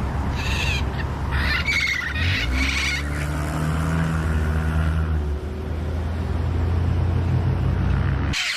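Wild parrots squawking, several harsh calls in the first three seconds, over a steady low engine hum that cuts off suddenly near the end.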